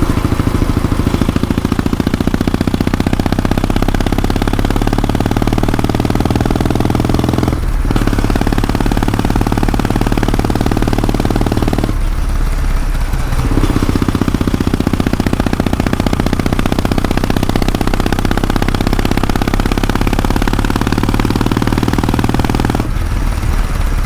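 Kawasaki W650 air-cooled parallel-twin engine and exhaust running steadily under way, with two brief breaks in its note, one about a third of the way in and one about halfway.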